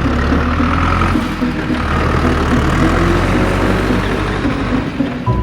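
Heavy vehicle engine sound effect, a truck-type engine running steadily with a deep rumble.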